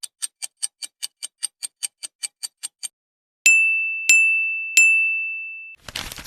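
Rapid ticking, about five even ticks a second for about three seconds, then three bright high dings whose ringing tone cuts off suddenly. A short burst of crackling noise follows at the very end.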